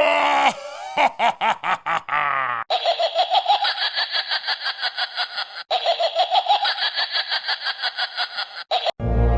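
A spooky sound-effect voice: a brief moaning glide, a few short laughs, then two long, high-pitched cackling laughs of rapid 'ha-ha-ha' pulses, about five a second. Music starts right at the end.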